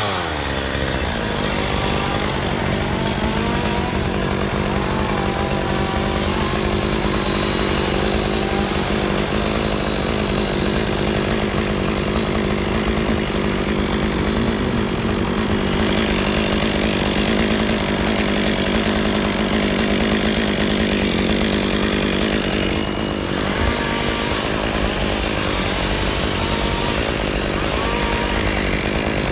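Chainsaw running at a steady high speed, with a brief dip in its note about three-quarters of the way through.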